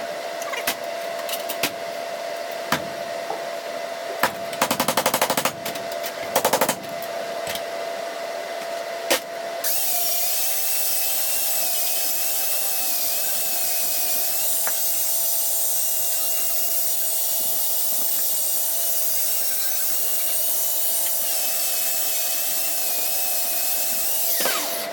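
Metalworking tool noise on scrap steel: scattered knocks and two short rapid rattling bursts in the first half, then a steady hissing whine for the rest.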